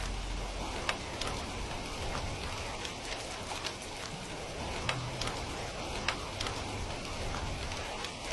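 Steady rain, with scattered sharp crackles from a wood fire every second or so.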